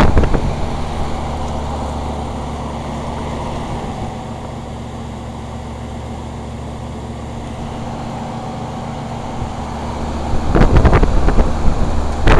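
An old York heat pump outdoor unit from the early-to-mid 1980s running steadily in heat mode: a compressor and fan hum with low tones. Wind buffets the microphone at the start and again near the end.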